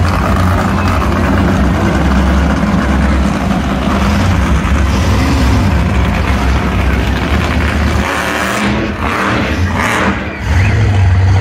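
Monster truck engine running loud and steady. A little over eight seconds in the low rumble drops away and the sound turns rougher and uneven, dipping briefly just after ten seconds before it comes back up.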